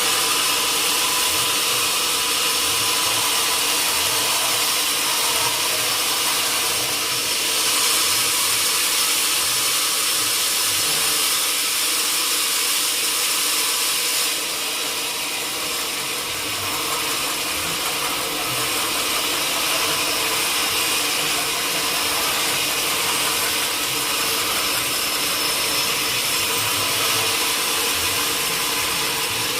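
Sawmill saw running steadily on mahogany wood, a constant machine noise with a hum and a hiss, the hiss growing brighter for several seconds partway through.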